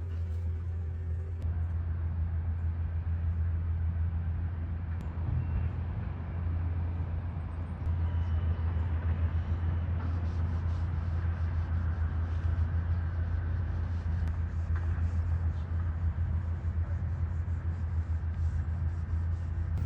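A steady low rumble with a hiss above it, growing slightly louder about eight seconds in.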